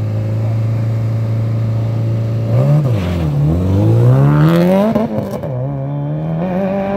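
Subaru Impreza's flat-four engine held at steady revs on the start line, then launched. The revs dip and climb hard, drop sharply at a gear change about five seconds in, and rise again as the car pulls away.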